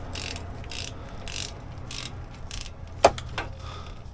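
Socket ratchet wrench working a bolt, its pawl clicking in short back-and-forth strokes about twice a second, with one sharp metallic click about three seconds in.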